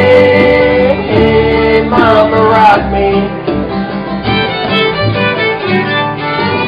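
Live band music with a fiddle playing an instrumental line over strummed acoustic guitar, in a bluegrass style, with no singing.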